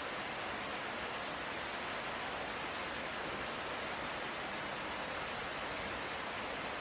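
Steady light rain, an even hiss with no thunder.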